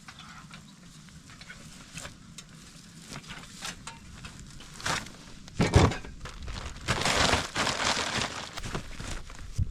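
Irregular crunching and crumpling, with scattered small crackles, one heavy thump a little before six seconds in, then a dense run of crunching for about two seconds.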